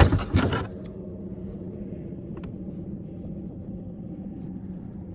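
Two quick scissor snips cutting through the fabric of a homemade phone windsock at the start, followed by a steady low hum.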